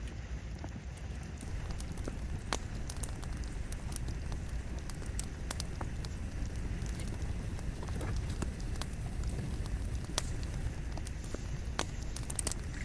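Wood campfire burning with a low steady rumble of flame, and irregular sharp crackles and pops from the burning logs, a cluster of them near the end.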